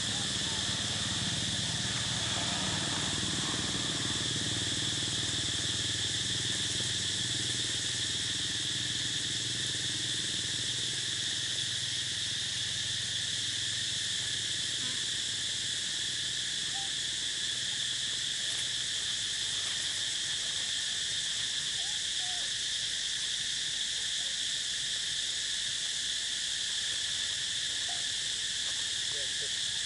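Steady insect chorus: a continuous, even high-pitched buzz that does not change.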